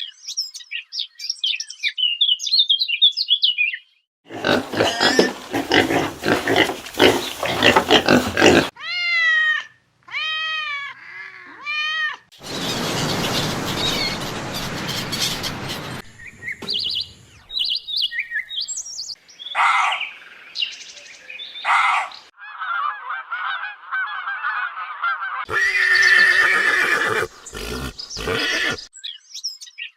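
A series of different animal calls, cut abruptly one after another, each lasting a few seconds: quick high chirps, then harsher noisy calls and a run of repeated rising-and-falling pitched cries.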